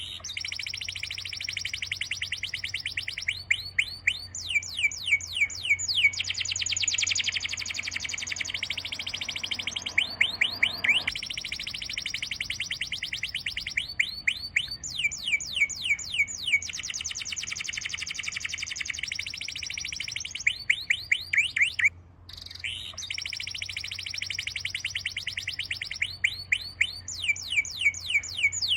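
Birds whistling and chirping in long, rapid trains of repeated high notes, broken by short pauses, over a faint steady low hum.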